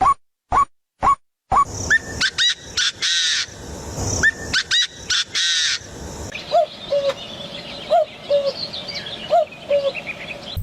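Birds calling. It opens with a few short, evenly spaced call notes, then a busy mix of chirps and trills from about a second and a half in. In the second half a lower two-note call repeats several times.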